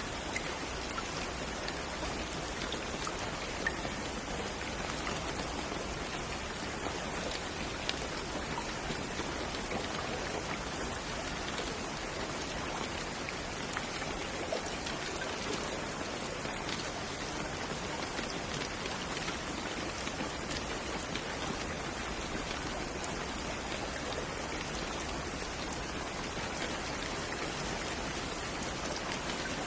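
Steady rain falling on a surface, a dense even hiss of drops with scattered louder individual drip ticks.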